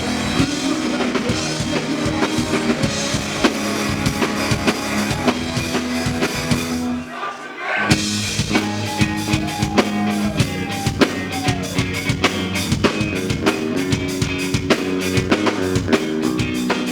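Live band playing an instrumental passage, led by a drum kit with bass and guitar. About seven seconds in the band drops out for under a second, then comes back in at full level.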